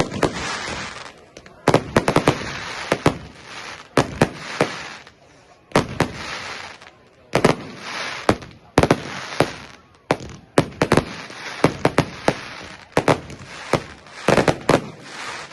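Fireworks going off: a rapid run of sharp bangs and crackles in clusters, with a hissing crackle between them.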